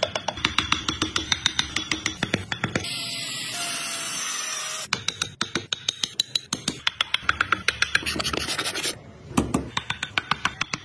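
Quick, even strokes of a hand file or rasp on wood, about five or six a second. A steady hiss replaces them for about two seconds near the middle, and there is a brief pause before the end.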